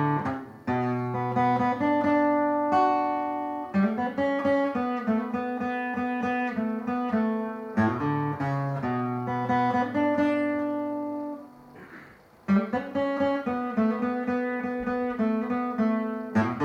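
Acoustic guitar playing a song's introduction, plucked notes and chords left to ring. About twelve seconds in a chord dies away to a brief pause, then the playing picks up again.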